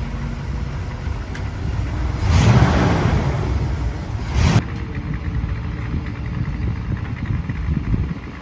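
1993 Ford SVT Lightning's 5.8-litre V8 running as the truck pulls away in gear, with a louder surge of acceleration about two seconds in that cuts off sharply a couple of seconds later, then running on more quietly.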